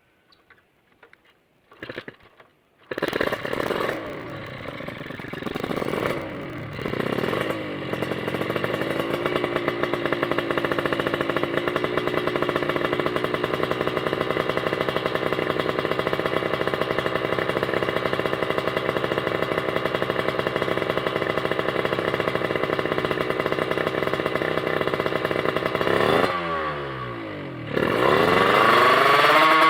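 Kawasaki Ninja 150R's single-cylinder two-stroke engine, breathing through an HPM galvanised-steel racing exhaust. It starts about three seconds in, blips a few times, then idles steadily. Near the end it is revved up and down in quick sweeps.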